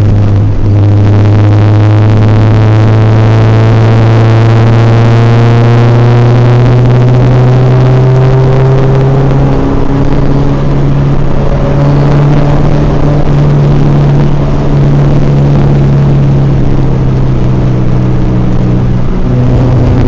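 Honda Civic four-cylinder engine running under load, heard from inside the cabin; its pitch climbs slowly through the first half, steps higher about halfway, then eases back near the end.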